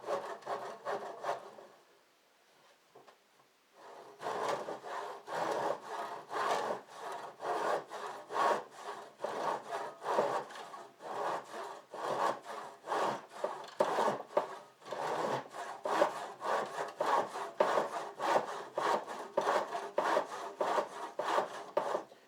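A hand saw cutting through the end of a garage door in quick back-and-forth rasping strokes. It stops about two seconds in and starts again about two seconds later.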